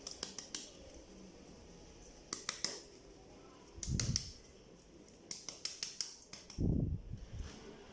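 Flour being sifted through a sifter over the bowl: short runs of quick sharp clicks as the sifter is worked, with a couple of dull bumps.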